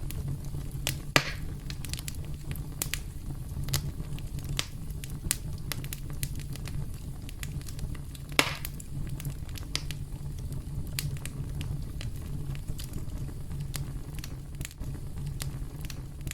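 Wood campfire crackling: a steady low rumble of burning with frequent sharp snaps and pops, two of them louder, about a second in and about halfway through.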